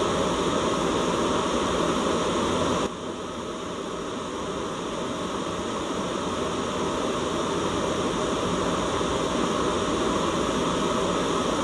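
Steady hissing white noise from a white-noise track. About three seconds in it drops suddenly in level, then slowly swells back up.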